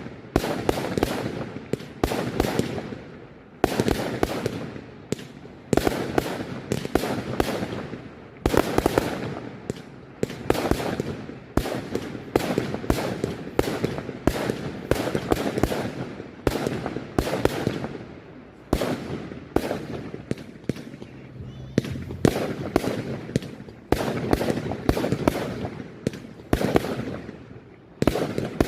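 Display fireworks going off in rapid succession: a continuous barrage of sharp bangs, several a second at times, each fading away over a second or so.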